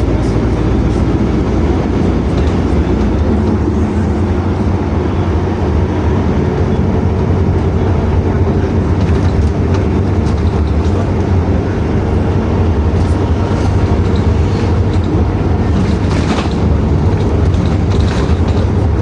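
PAZ-422320-04 Citymax 9 city bus heard from inside the passenger cabin while under way: a steady low engine drone with road noise. A few light rattles come near the end.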